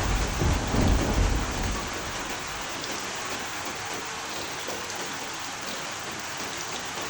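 Steady heavy rain hissing, with a roll of thunder rumbling deep and loud in the first couple of seconds and dying away, leaving only the rain.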